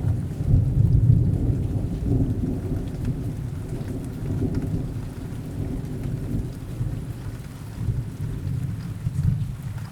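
Thunderstorm: steady rain with a low rolling rumble of thunder that is loudest early and slowly fades.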